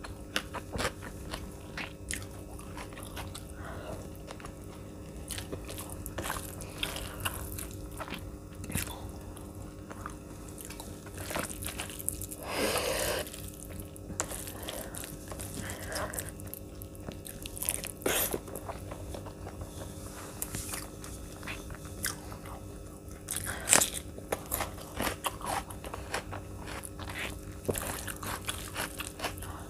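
Close-miked eating: a person biting and chewing handfuls of vegetable biryani with shahi paneer, with many sharp wet mouth clicks and smacks and a few louder crunchy bites.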